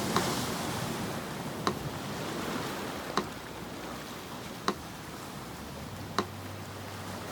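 Sea surf washing ashore, heavier near the start and easing off, with a metronome ticking evenly about once every second and a half, five ticks in all.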